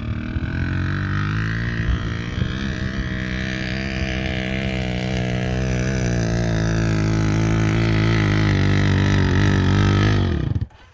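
Motorcycle engine running at a steady speed, slightly louder toward the end, then switched off: its pitch drops as it winds down and stops suddenly near the end.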